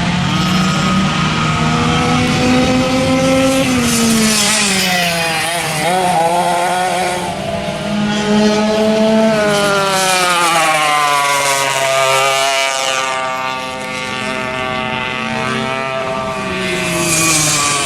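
Vintage racing kart engine running hard, its pitch climbing under acceleration and dropping when the throttle is lifted several times over, with a final climb near the end.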